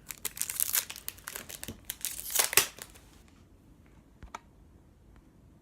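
Trading-card pack wrapper crinkling and tearing as it is opened, busy for about three seconds, then dying down to a couple of faint clicks.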